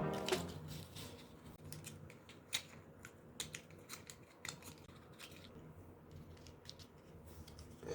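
Faint, irregular clicks and snips of small hand work on a matchbox craft, with the loudest click about two and a half seconds in.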